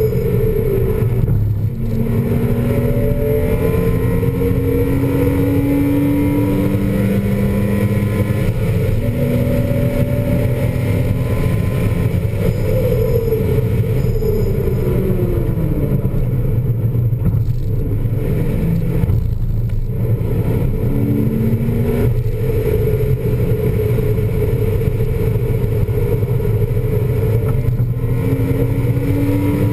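2000 Porsche Boxster S's 3.2-litre flat-six engine under hard acceleration on a race track, heard from inside the cabin with steady road and wind noise. Its pitch climbs again and again through the gears, with a few brief dips in between.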